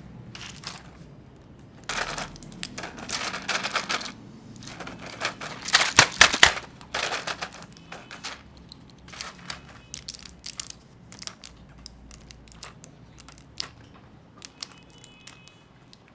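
Plastic snack packaging being handled and opened: irregular crinkling and sharp clicks, densest a couple of seconds in and loudest about six seconds in, then thinning to scattered ticks.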